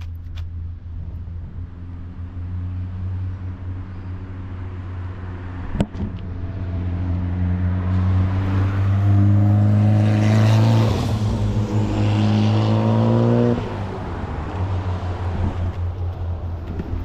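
A car engine idling steadily while another car drives past, its engine growing louder from about eight seconds in, peaking a few seconds later and dropping away abruptly near the end. A single sharp click about six seconds in.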